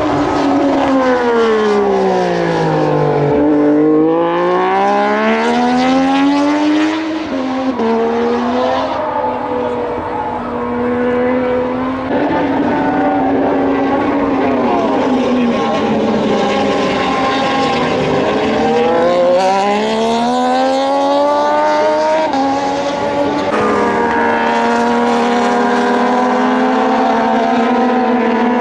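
Moto2 racing motorcycles with Triumph 765 cc three-cylinder engines passing at speed. One bike's note drops as it brakes and then climbs again through the gears, and the fall-and-rise pattern repeats later as more bikes go by. The engine sound holds steady and high near the end.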